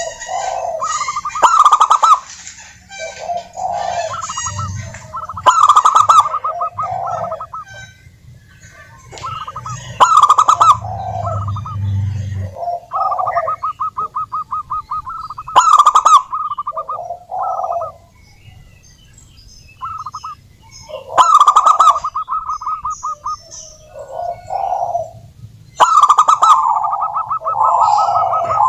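Zebra doves cooing: repeated phrases every few seconds, each a fast stuttering run of notes at one pitch followed by lower rolling coos. The loudest phrases sound harsh and distorted.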